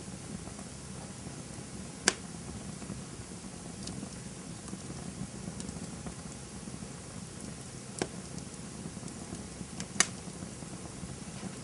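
Campfire burning with a steady low rumble of flames and scattered crackles, three sharp pops standing out at about two, eight and ten seconds in.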